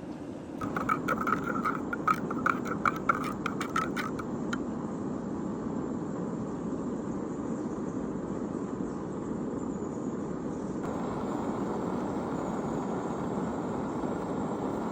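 A quick run of about a dozen light, ringing metallic clinks for the first four seconds or so, over a steady low rushing noise that carries on throughout.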